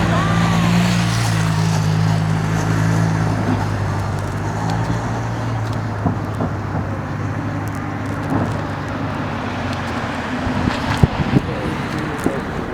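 Road traffic noise with a steady engine hum that fades away over several seconds, then a few sharp clicks near the end.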